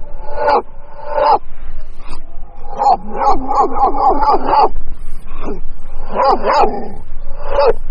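An animal giving a string of short whining, yelping cries, with one longer wavering cry in the middle.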